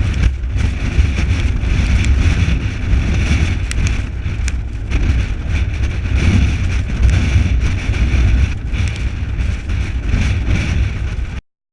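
Strong thunderstorm wind gusting over the microphone: a loud, rumbling, rushing noise with scattered small ticks, cutting off suddenly near the end.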